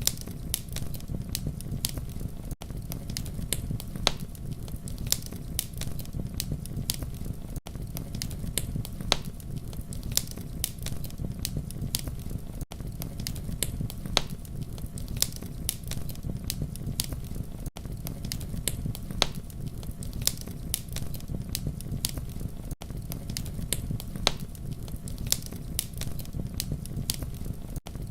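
Campfire crackling: frequent sharp pops and snaps over a steady low rumble of flames. A brief dip in the sound comes about every five seconds, where a short recording loops.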